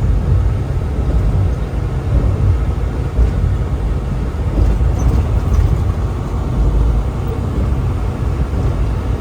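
Steady low rumble of a truck driving at highway speed: engine and road noise with no clear breaks.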